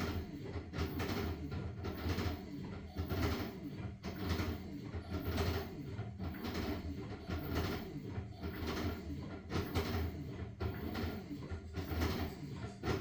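LG washing machine tumbling a load of blankets. A steady motor hum runs under a swish of wet fabric and water that repeats about once a second as the drum turns.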